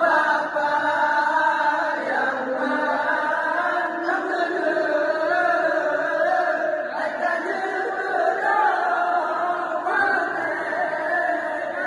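A group of voices chanting together in a continuous, wavering melody: a call waking people for sahur, the pre-dawn Ramadan meal.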